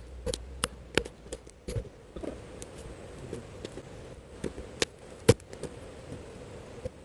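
Irregular sharp knocks and cracks of firewood, with one loud strike about five seconds in.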